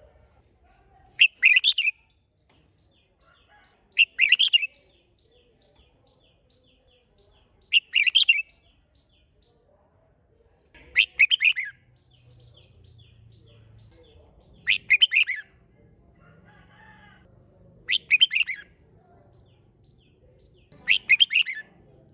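Red-whiskered bulbul singing: a short, loud warbled phrase repeated seven times, about every three seconds, with faint chirps in between.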